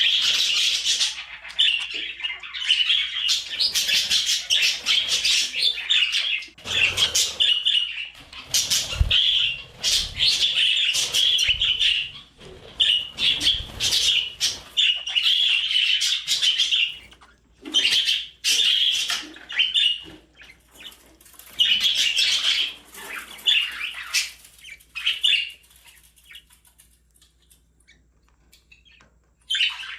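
Pet budgerigar chirping and warbling in a busy stream of short, high chirps, with a few low thumps in the middle. The chatter thins to scattered calls about two-thirds of the way through and fades near the end.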